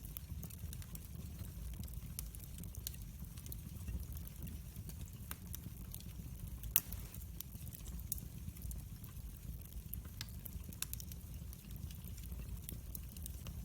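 Wood fire burning in a fireplace, crackling with scattered sharp pops over a low steady rumble. One pop about seven seconds in is louder than the rest.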